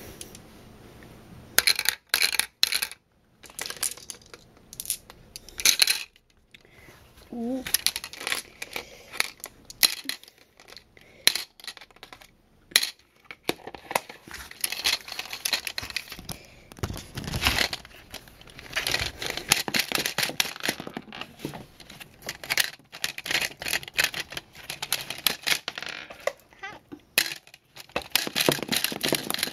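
Small marbles clicking and rattling against hard plastic as they are loaded into a B-Daman toy's marble magazine, with many irregular clicks and handling rustles.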